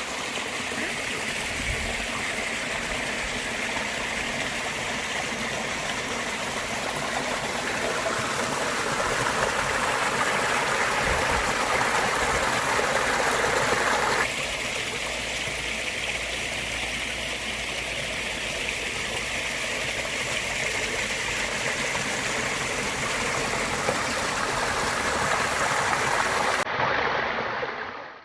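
Steady rush of water from a small spring-fed cascade, with no distinct events. It grows louder for a few seconds, shifts abruptly about halfway, and fades out at the end.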